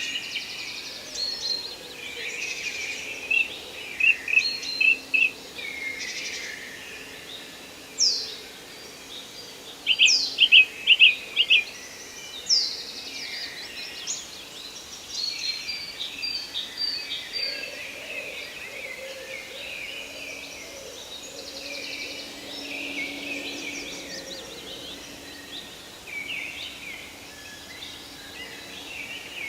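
Forest birds singing together, a busy mix of chirps and trills, with a few sharp downward-sliding whistles about 8, 10 and 12 seconds in and a quick run of loud short notes around 10 to 11 seconds.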